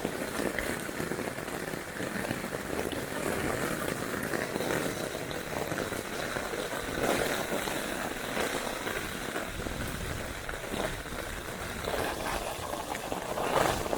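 Steady rain falling, with scattered louder drop hits close to the microphone.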